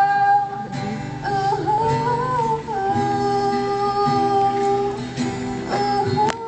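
A voice singing long held notes over acoustic guitar, with a wavering run of notes in the middle.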